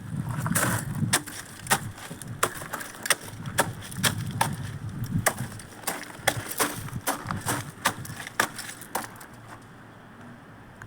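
Bonfire of tree branches crackling, with irregular sharp pops and cracks a few times a second over a low rumble of flame.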